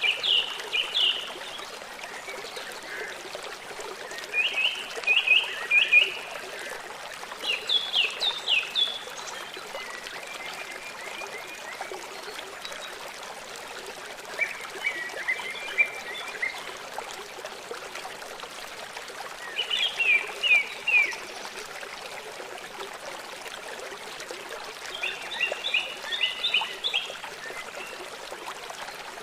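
A songbird singing short phrases of three to five quick, sharp down-slurred notes, repeated every few seconds, over a steady hiss of running water.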